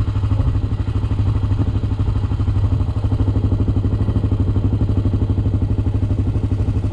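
Honda ATV's single-cylinder four-stroke engine idling with a steady, even pulse.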